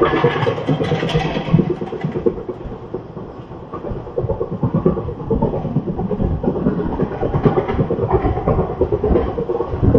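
Running noise of a moving express train heard from on board: a steady rumble of wheels and coaches on the track with wind, dipping briefly about three seconds in.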